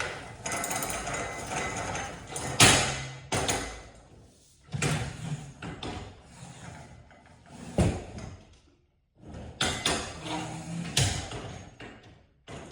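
Clatter and scraping of tools and hardware being handled, broken by three sharp knocks; the loudest knock comes about two and a half seconds in, the others near eight and eleven seconds.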